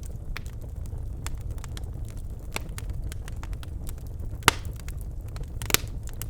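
Birch logs burning in a fireplace, crackling with scattered small snaps over a low steady rumble. Two much louder pops stand out, the first about two-thirds of the way in and the second near the end.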